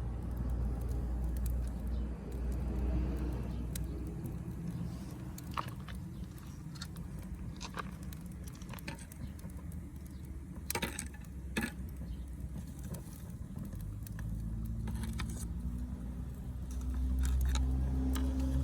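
Wood fire crackling with scattered sharp pops, two loud snaps about halfway through, over a steady low rumble; a low drone rises in the last few seconds.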